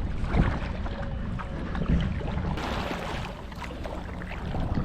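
Kayak paddling: the paddle blades splashing in and pulling through the water, with wind rumbling on the microphone.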